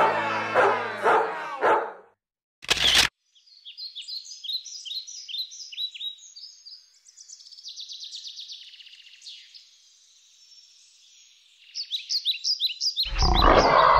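Strummed guitar music fading out, then a single short, sharp sound about three seconds in. After it comes birdsong: quick runs of descending chirps that grow louder and fuller near the end.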